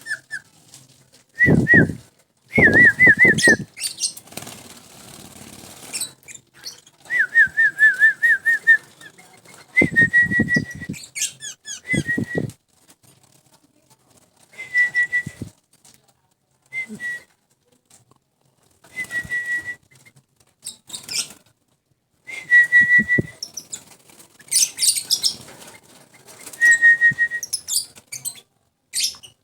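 A hand-fed yellow-vented bulbul flutters its wings and chirps, with short warbling whistles repeated every few seconds and bursts of fluttering noise.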